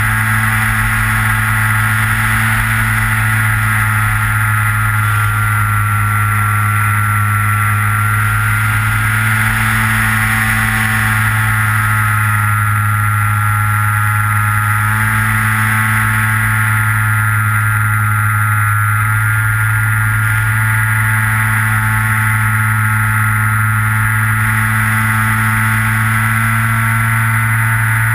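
Skywalker FPV plane's electric motor and pusher propeller running steadily, recorded from on board: a loud, constant hum with a high whine whose pitch drifts slightly up and down with the throttle.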